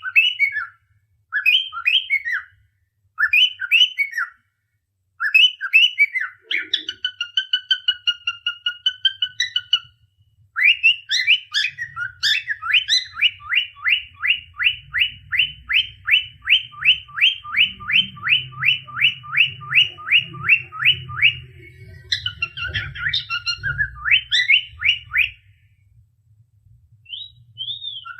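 Cockatiel whistling: a string of short rising-and-falling whistles, then a longer warbling whistle, then a fast run of quick repeated notes at about three or four a second for ten seconds, ending in a few more whistles.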